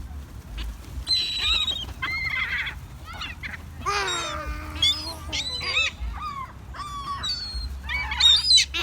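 A flock of gulls calling over one another, short high cries repeated throughout, with a lower, longer falling call about four seconds in.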